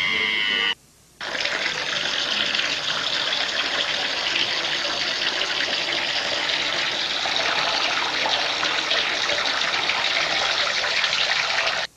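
Steady stream of running water, like water poured into water, lasting about ten seconds and stopping sharply; it stands for a character peeing in the pool. A short rising tone comes just before it.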